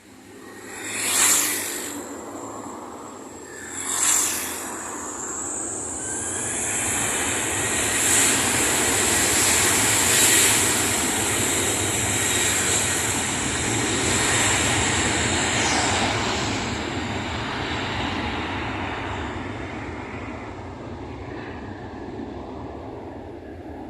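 Boeing 737-700 jet engines (CFM56-7B) at takeoff power: a steady high fan whine and a broad rushing jet noise that build to their loudest about ten seconds in, then slowly fade. The whine stops about sixteen seconds in. Two short loud bursts of noise come about one and four seconds in.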